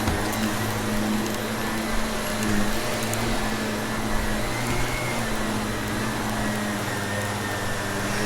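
Vacuum cleaner running steadily with a motor hum and a high whine, with a few faint ticks of debris being picked up.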